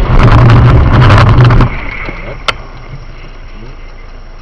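Loud rumbling vehicle noise thick with crackling knocks, as from a collision or rough running, cutting off abruptly after about a second and a half. A single sharp click follows, then quieter steady road noise.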